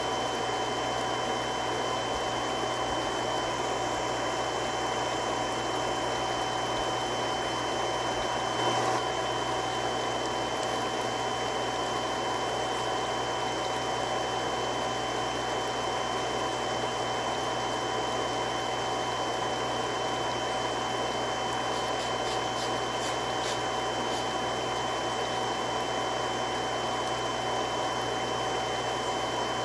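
Three-stage irrigation water pump running steadily: an even rushing noise of water through the pump with a constant hum and several steady whining tones. A brief, slightly louder bump about nine seconds in.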